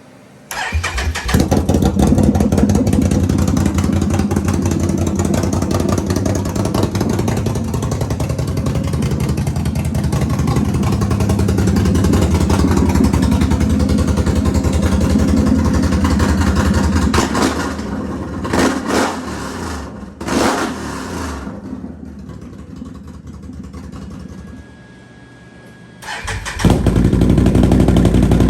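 Can-Am Renegade XMR 1000R's Rotax V-twin engine starting and running straight-piped with the muffler removed, loud and open-sounding. It starts about half a second in, runs loud for most of the time, drops quieter for a few seconds near the end, then comes up loud again.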